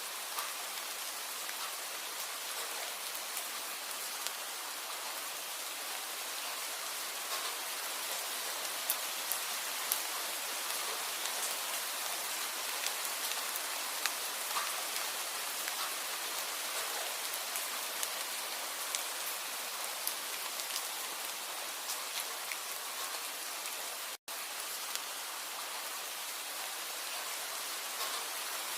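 Steady rain falling, a continuous hiss with many small drop ticks. The sound cuts out for an instant about 24 seconds in.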